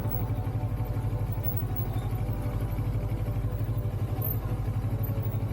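CFMoto 650 parallel-twin motorcycle engine running steadily at low revs, with an even pulsing beat.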